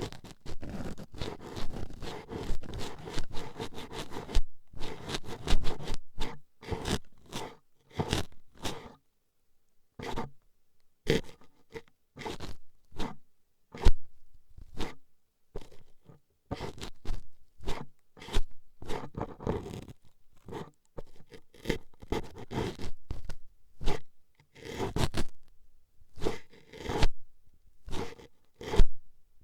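Toothpicks scraping and jabbing at the ears of a binaural ASMR microphone in short, scratchy strokes. The strokes come thick and fast for the first several seconds, then separately, about one or two a second.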